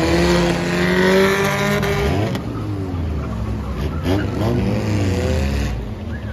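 Several battered demolition-derby cars' engines revving up and down as they drive and slide around the lot, with tyres squealing for the first couple of seconds. The overall level drops a little near the end.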